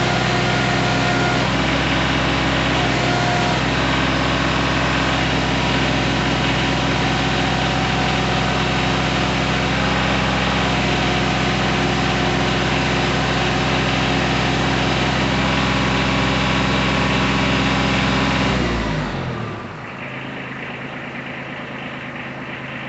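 Kubota B2320 compact tractor's three-cylinder diesel engine running steadily, then shut off near the end, its sound dropping in pitch and dying away within about a second.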